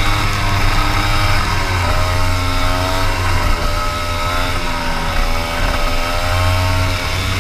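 Racing kart engine running hard, its pitch rising and falling several times as the throttle is opened and lifted through the corners.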